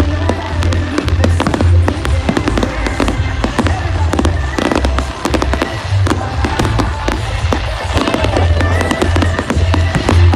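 Fireworks display bursting and crackling in a dense, continuous run of bangs, over loud music with a heavy bass beat.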